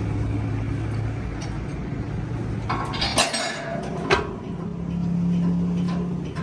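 Metal pieces clinking sharply twice, about three and four seconds in, over a steady low machine hum. The hum's pitch rises for the last couple of seconds.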